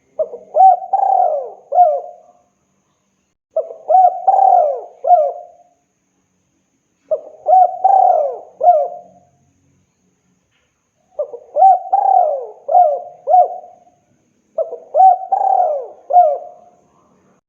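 Spotted dove (tekukur) singing its cooing phrase of three or four notes, repeated five times with short pauses between. It is the male's call to a female.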